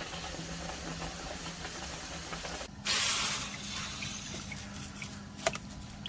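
A short hissing burst of spray about three seconds in, followed by faint drips and ticks and one sharp click about a second later, over a steady low hum.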